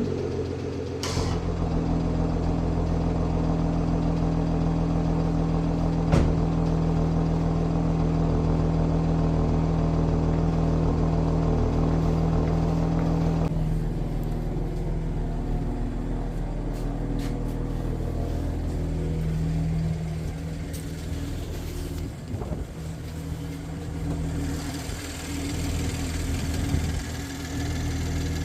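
BMW M340i's 3.0-litre turbocharged in-line six idling steadily after a cold start. About 14 seconds in, the higher-pitched part of the sound drops away and it runs a little quieter.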